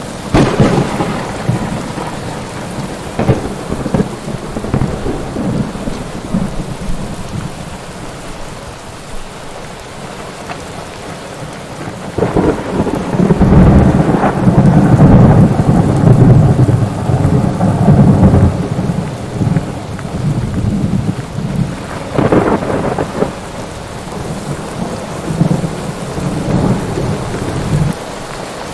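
Thunderstorm: steady heavy rain, with sharp thunder cracks near the start and again about two-thirds of the way through. In the middle comes a long, loud rolling rumble of thunder lasting several seconds.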